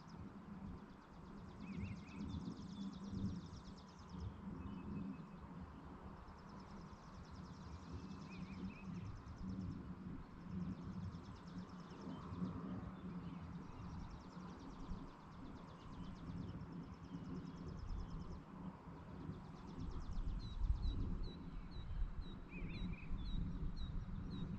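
Rural evening ambience: bursts of high, buzzy trills and a few short chirps over a low rumbling noise. Near the end the rumble grows louder and a bird repeats short, high call notes about three times a second.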